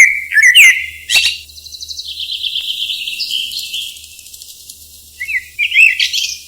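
Cockatiels calling: loud short whistled calls that glide up in pitch at the start and again near the end, with quick chattering chirps in between.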